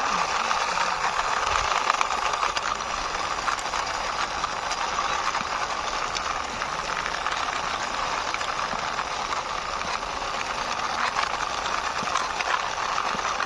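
Plastic toy fire truck's wheels rolling and rattling continuously over a rough ledge as it is pushed along by hand, a steady gritty noise full of fine clicks.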